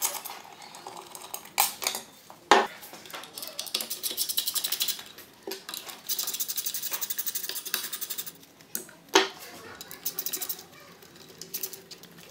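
Hand tools working on metal engine parts of a BMW flat-twin motorcycle engine during disassembly: scattered metal clinks and sharp knocks, with two stretches of rapid, even clicking like a ratchet wrench turning.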